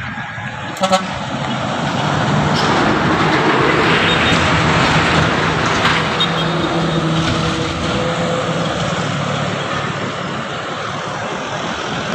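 Truck traffic climbing a steep hill, a heavy engine running steadily under road noise, with a short horn toot about a second in.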